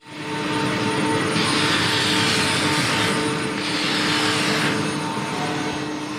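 Shop vacuum running steadily, sucking plastic chips out of freshly cut slots on a CNC router table. Its hiss swells twice, for about two seconds and then about one, as the nozzle draws over the slots.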